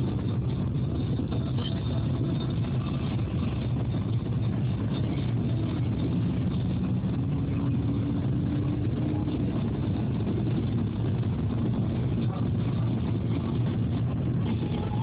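Steady engine and road noise heard from inside a moving car's cabin, a low, even rumble without sudden changes.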